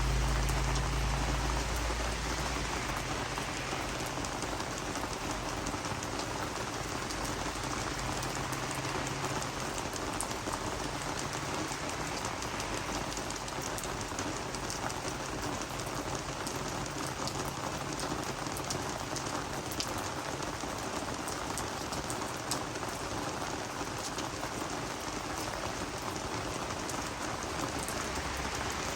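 Steady rain falling on garden plants: a continuous patter, with many sharp ticks of single drops striking the leaves. A low rumble fades away in the first couple of seconds.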